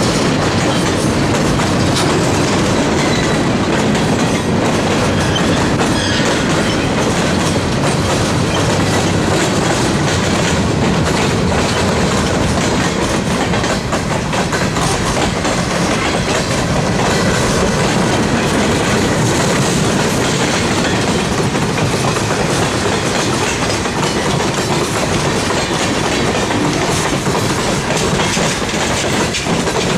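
Freight cars of a long freight train rolling steadily past close by, their wheels clicking over the rail joints, with the constant rumble and rattle of the cars.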